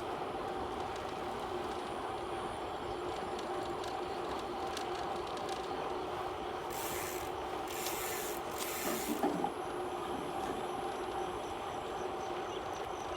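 Bicycle on the move: a steady rolling hum with an even two-note drone from tyres and drivetrain, broken by three short hisses about halfway through.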